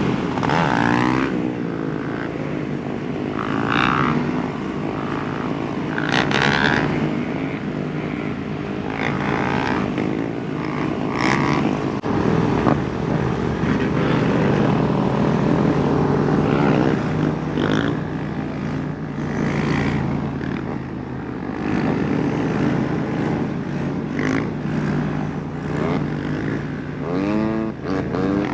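Several motorcycle engines running together, revving up and down in pitch again and again, with a rising rev near the end.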